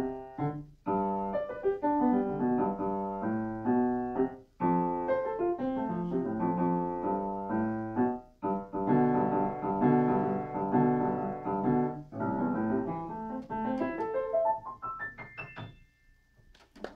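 Solo piano playing, ending with a run of notes climbing into the high register that fades out just before the end.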